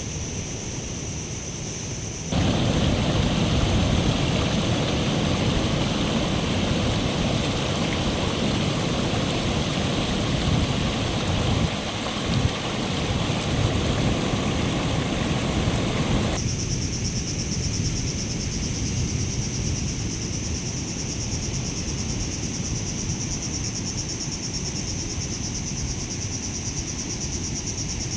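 Outdoor nature ambience in three spliced sections. A steady high insect chirring opens it; a loud, even rushing noise cuts in about two seconds in and stops abruptly about sixteen seconds in; the insect chirring then returns and holds steady.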